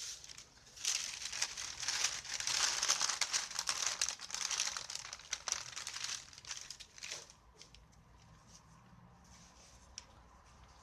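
A crinkling rustle full of small crackles, as of something being handled or rubbed, for about six seconds, then a few faint clicks.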